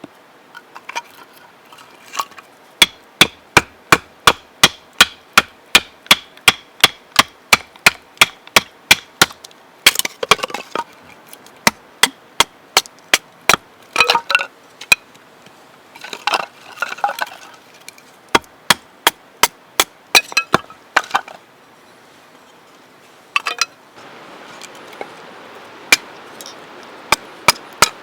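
Repeated hard knocking strikes, about two to three a second, in several runs broken by pauses, with brief cracking and rustling noises between the runs.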